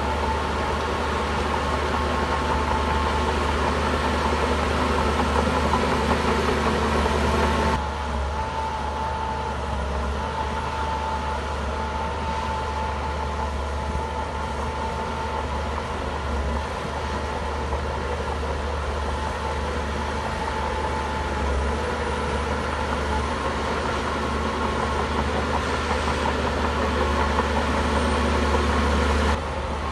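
Heavy diesel engine of earthmoving machinery running steadily. The sound changes abruptly, dropping in level, about eight seconds in and again just before the end.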